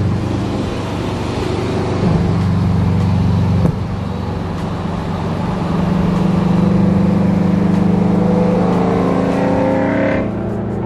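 Engine and exhaust drone of the supercharged Toyota GT86's flat-four, which runs catless headers and a cat-back exhaust, while the car is driven. The drone holds steady, dips briefly about four seconds in, then climbs in pitch near the end as the car accelerates.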